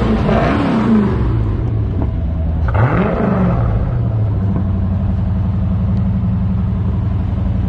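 1987 Chevrolet Corvette's V8 engine, revved twice and then settling into a steady idle about halfway through.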